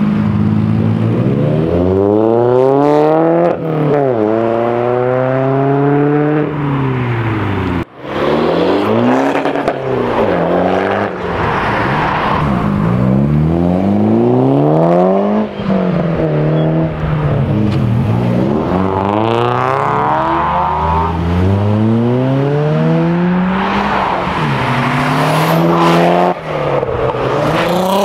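Several modified cars accelerating hard away in turn, among them a BMW E46 3 Series, a Mitsubishi Lancer Evolution and a Volkswagen Golf R32. Each engine revs up steeply, drops in pitch at every upshift and climbs again, with a brief break about eight seconds in.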